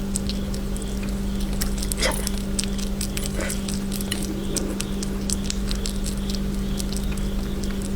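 A sugar glider chewing a snack: a scatter of small, crisp clicks and crunches over a steady low hum.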